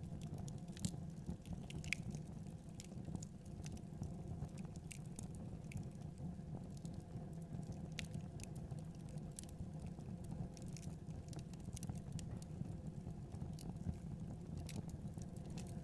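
Wood fire in a fireplace crackling: irregular sharp pops and snaps scattered over a steady low rumble of the flames.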